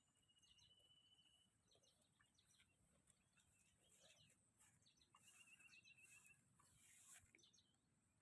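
Near silence, with faint bird chirps and calls: a thin steady whistle at the start and a short warbling trill about five seconds in.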